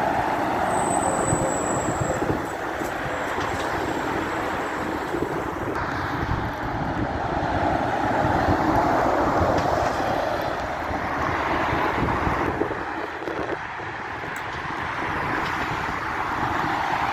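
Heavy vehicles passing, a continuous rumbling noise that swells and fades, with a brief high squeal about a second in.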